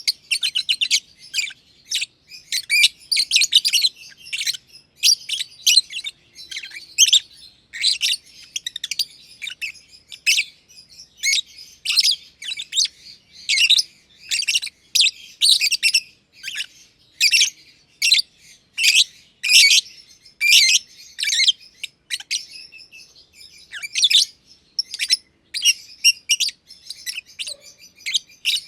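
Masked lovebirds chirping almost without pause: shrill, high-pitched chirps in quick clusters of several calls, with brief gaps between clusters.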